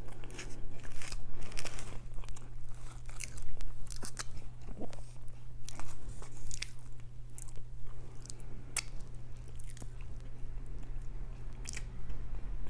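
Close-miked eating: a person biting and chewing food, with irregular crunchy, wet mouth clicks over a steady low hum.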